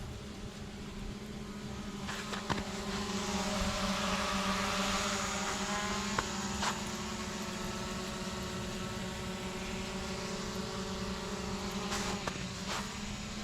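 An engine running steadily, with a rush of noise that swells a few seconds in and then eases, and a few light knocks.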